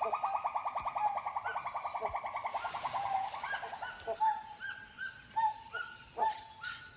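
Gibbon calling: a fast run of evenly repeated notes, about ten a second, that about halfway through breaks into separate rising hoots about twice a second, the loud calling gibbons use to defend their territory.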